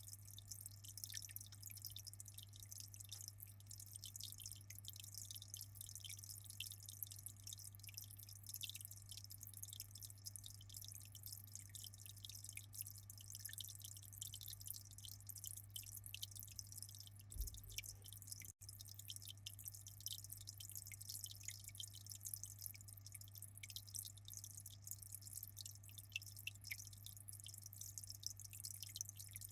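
Aquarium water trickling and splashing in a fast, irregular patter of small drips, over a steady low hum.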